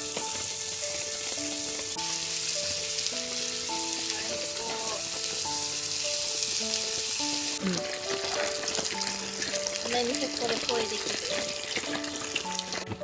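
Food sizzling and frying in a hot pan, over background music playing a simple melody. The sizzle drops off suddenly about three-fifths of the way through, leaving a lighter crackle under the music.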